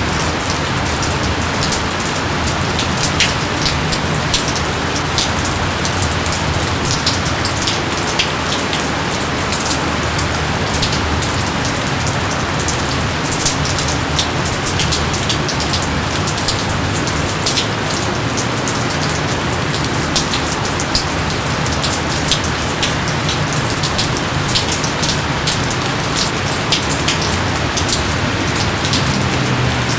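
Steady, heavy rain falling, with a dense hiss and many sharp individual drops pattering on surfaces.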